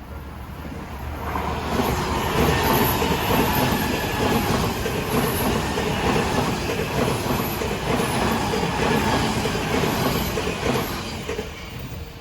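Odakyu Line electric train passing through a level crossing. It builds up over the first two seconds, goes by steadily for about nine seconds and fades near the end, with the crossing's warning bell ringing under it.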